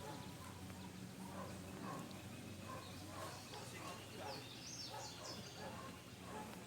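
Wild birds chirping in a faint outdoor ambience, with a short run of quick high chirps about four seconds in over a low steady background murmur.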